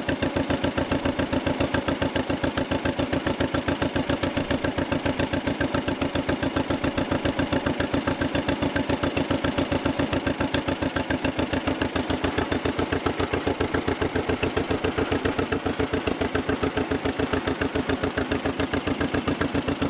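A 1955 John Deere 40S two-cylinder tractor engine running at a steady speed while the tractor is driven, with an even, rapid beat of firing pulses.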